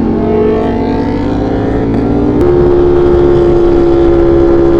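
V4 sport motorcycle engine running at steady revs under way, with wind and road noise. About halfway through the engine note steps to a new steady pitch and holds there.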